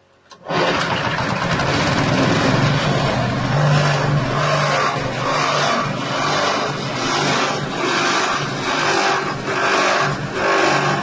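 Corn-cob grinding machine driven by a 6.5 hp engine, cutting in abruptly about half a second in and running loud, with a steady engine hum under a grinding noise. From about four seconds in the grinding swells in regular pulses a little more than once a second.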